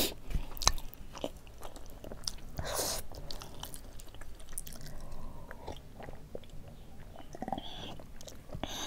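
Close-miked chewing of a mouthful of rice and buffalo meat curry, with scattered small clicks of the mouth and fingers.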